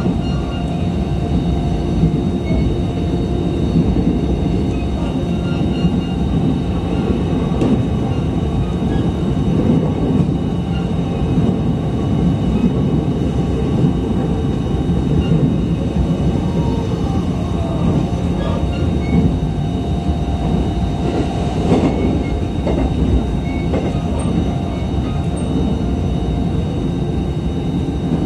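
JR East E129 series electric train running at speed, heard from inside the car: a steady rumble of wheels on rails, with one short knock about three-quarters of the way through.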